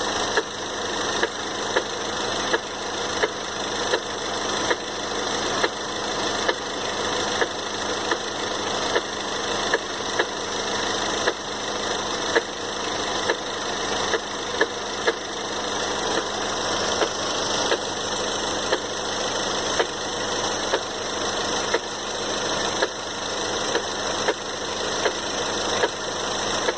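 2013 Ford Fusion's 2.0L EcoBoost four-cylinder engine idling with a sharp knock repeating about one and a half times a second.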